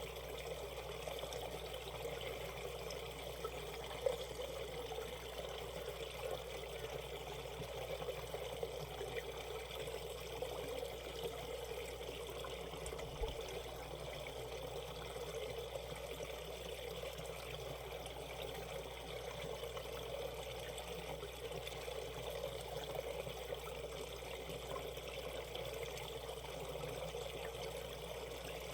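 Valley stream flowing over shallows, a steady babbling and trickling of water.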